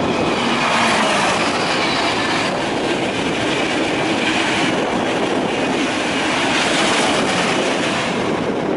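A Eurostar high-speed train running past close by: a steady, loud rushing noise, swelling slightly about a second in and again near the end.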